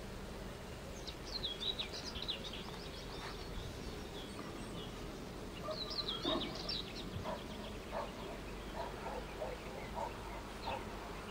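Songbirds singing in quick bursts of high chirps, about a second in and again about six seconds in, over a steady low outdoor hum. Short, lower-pitched calls repeat through the second half.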